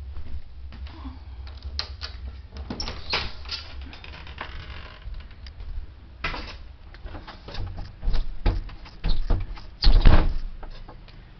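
A door being opened and handled: a run of irregular clicks and knocks, loudest about ten seconds in.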